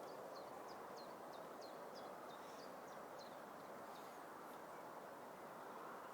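A small bird calling a quick run of short, high notes, about three a second for the first three seconds, faint against a steady outdoor background hiss.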